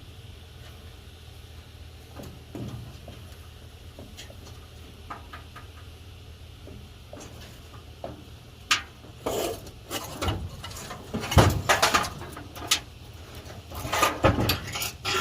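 Metal clanks, knocks and scraping as a 1952 Chevrolet truck's starter motor is worked loose and pulled out from the engine: a few light clicks at first, then a dense run of clattering over the last six seconds. A steady low hum runs underneath.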